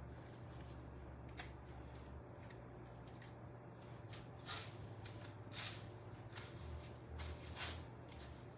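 Faint, soft squishing and rustling of mayonnaise-coated chicken pieces being pressed into panko crumbs, in short scattered strokes with a few louder ones near the middle and end, over a low steady hum.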